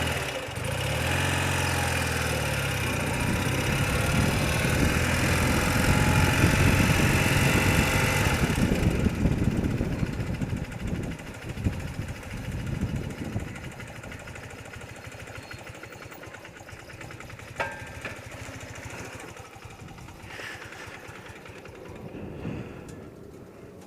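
A BMW motorcycle engine runs for about nine seconds and then falls away, leaving a quiet background with a single sharp click later on.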